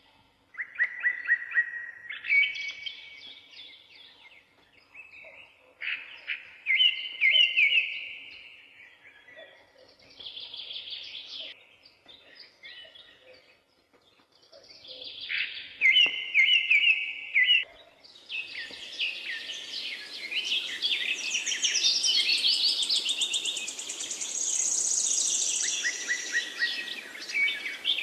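Songbirds singing: a string of short, fast trilled phrases, one after another with brief gaps. About two-thirds of the way in, several birds sing at once, higher and denser, over a steady hiss.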